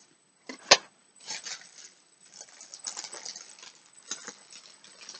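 Packaging being handled during an unboxing: one sharp click a little under a second in, then a few seconds of crinkling and rustling of paper or plastic wrapping.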